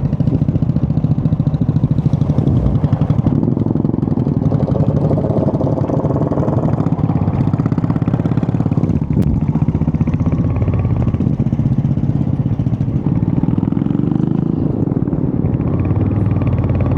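Royal Enfield Hunter 350's single-cylinder engine running under way, its exhaust note rising in pitch as it accelerates a few times.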